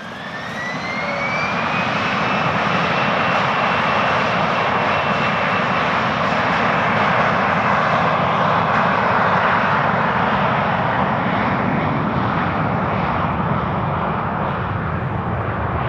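Bombardier Global business jet's turbofan engines spooling up to takeoff power. A whine rises over the first couple of seconds and then holds steady over a loud, even jet roar.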